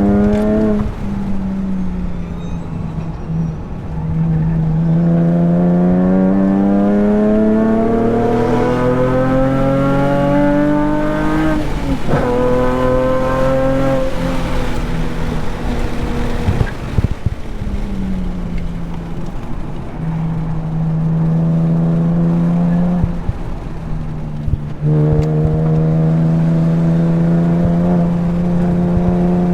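Nissan 370Z Nismo's 3.7-litre V6 heard from inside the car at track pace. The revs climb steadily for several seconds and drop sharply at a gear change about twelve seconds in. They climb again, fall away as the driver lifts off, then hold a steady pitch through the rest, with a short dip a little past twenty seconds.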